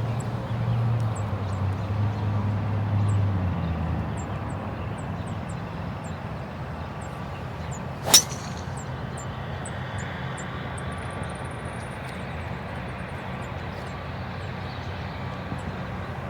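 Golf club striking a ball off the tee: a single sharp crack about halfway through. Behind it is a steady low outdoor rumble that is heavier during the first few seconds.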